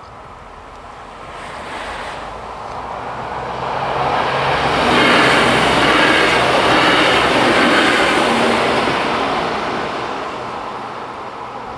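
Trenitalia ATR 220 'Swing' diesel multiple unit passing over a level crossing. Its engine and wheels on the rails grow louder as it approaches, are loudest about five to eight seconds in, then fade as it moves away.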